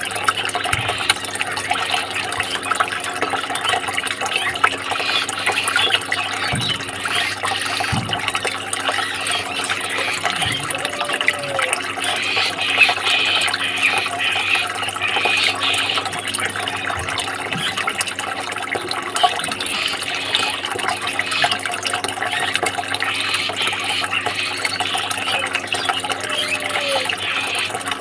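Steady running, splashing water, with a faint steady hum underneath.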